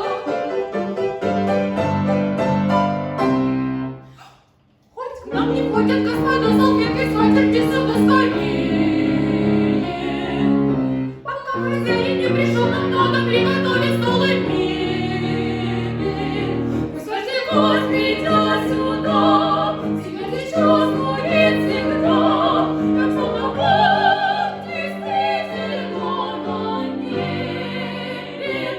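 A female voice singing an operetta song in a classical style, over instrumental accompaniment. The music breaks off for about a second, four to five seconds in, then resumes and stops near the end.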